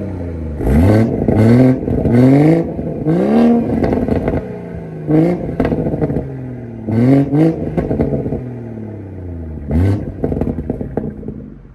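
BMW 340i's B58 turbocharged inline-six, breathing through a Dinan full exhaust, blipped about eight times in quick succession, each rev rising sharply and falling back to idle between blips.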